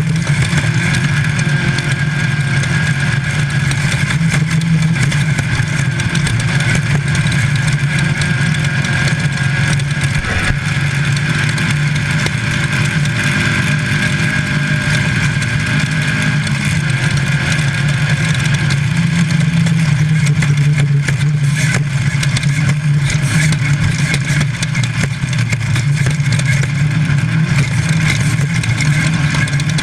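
Class 5 Baja Bug race car's air-cooled VW engine running hard under load at fairly steady revs, heard from inside the car. The revs dip slightly and come back up around the middle. There is a short knock about ten seconds in.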